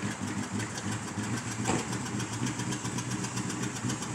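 Vehicle engine idling steadily, with a short sharper sound about one and a half seconds in.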